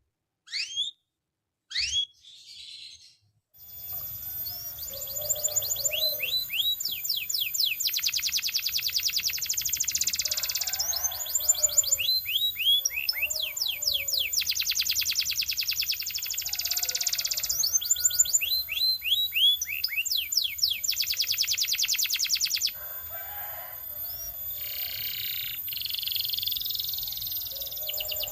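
Belgian canary singing: a few separate chirps, then from about four seconds in a continuous song of rapid trills and rising whistled sweeps.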